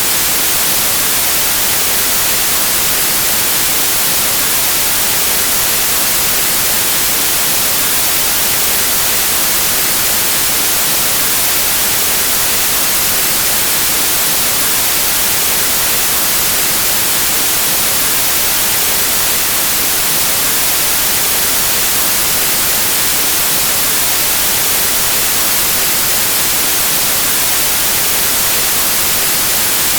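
Steady white noise: an even, constant hiss that does not change, brightest in the treble.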